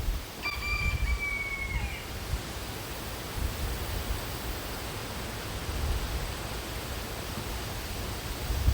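Wind buffeting the microphone over a steady outdoor hiss. About half a second in, a single clear whistle-like call, held for about a second and a half and dipping slightly at its end.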